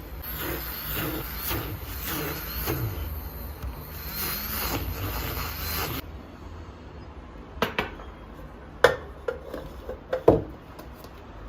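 Rhythmic scrubbing strokes on a surface, about two a second, for around six seconds. Then a handful of sharp knocks of hard objects being handled and set down.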